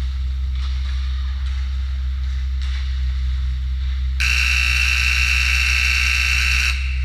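Game scoreboard buzzer sounding once, a harsh steady electric buzz lasting about two and a half seconds that starts and cuts off abruptly, over a steady low hum.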